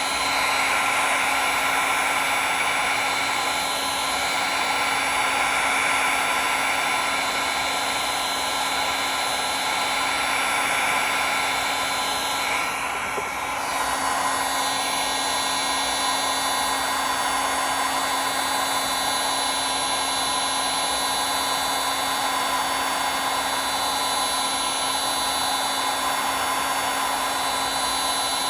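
Heat gun running steadily on its high setting: a continuous rush of air with a steady motor whine. It dips briefly about halfway through.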